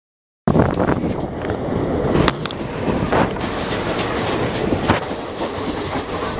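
Express passenger train running at speed, heard from on board: a steady rumble and rush of wind, with wheels clicking over rail joints a few times. It starts about half a second in, after a brief silence.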